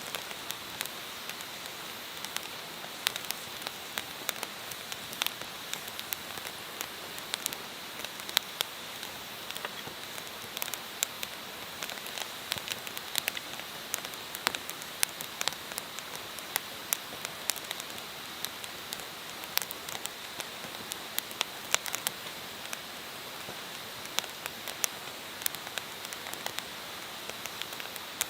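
Campfire burning: a steady hiss with irregular sharp crackles and pops from the burning wood.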